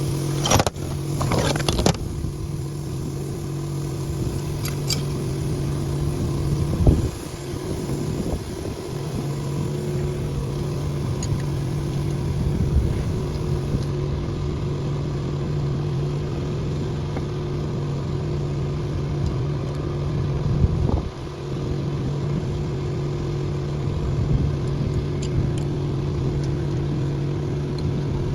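An engine running steadily, its note dropping out briefly twice, with a few clicks near the start.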